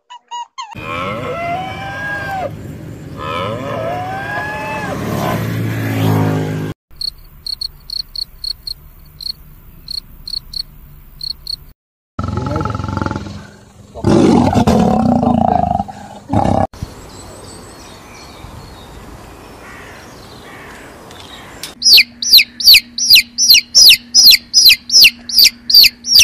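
A run of separate animal calls. About 12 s in, a lion roars: a loud low roar lasting a few seconds. Near the end, chicks peep rapidly, each peep loud, high and falling. Before the roar come other rising and falling animal calls and a run of short high chirps.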